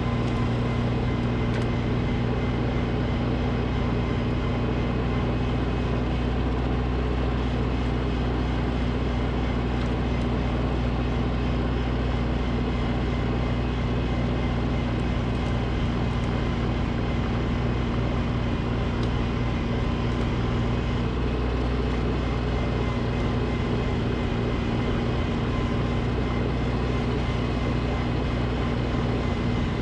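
Snowblower engine running steadily at a constant speed, an even drone with no change in pitch.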